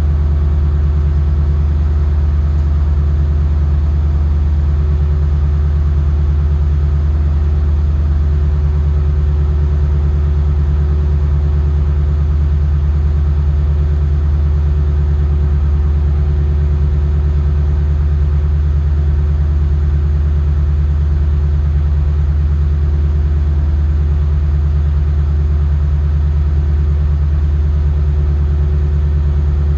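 Lexus LS460's 4.6-litre V8 idling steadily through a Fujitsubo Super Ti titanium exhaust, warming up after a cold start. It gives a deep, even note with no revs.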